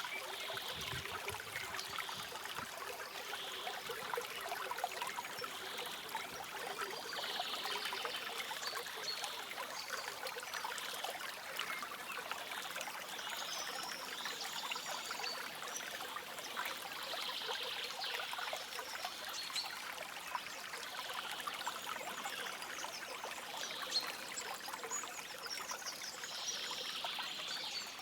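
A small stream trickling and splashing steadily over stones, with faint bird chirps every few seconds.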